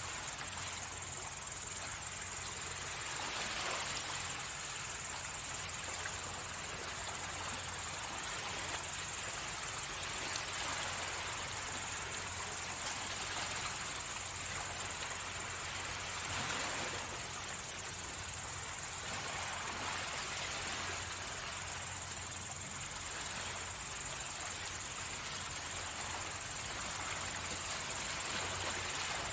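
Sea waves washing onto the shore, swelling twice, over a steady high-pitched chirring of night insects such as crickets.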